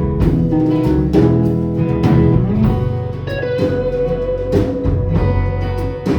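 Live band playing an instrumental break of a folk-rock song: guitar over a steady beat, with one long held guitar note starting about halfway through.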